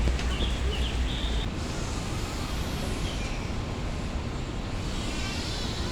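Steady background road-traffic noise, with a low rumble that stops about a second and a half in and a few faint high chirps.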